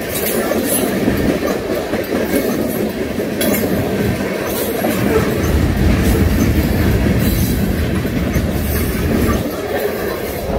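Freight cars, loaded tank cars and a covered hopper, rolling through a grade crossing with a steady rumble and wheels clacking over the rail joints. The low rumble swells from about the middle to near the end.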